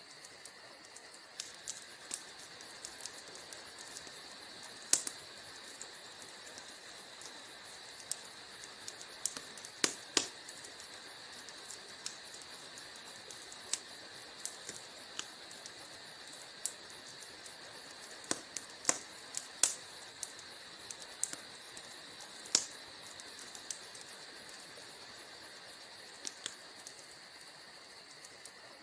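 Wood fire crackling in a fireplace: a steady soft hiss with irregular sharp pops and snaps, a handful of them much louder than the rest.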